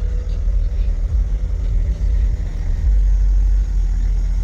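Low, steady rumble of an idling engine with a faint steady hum over it.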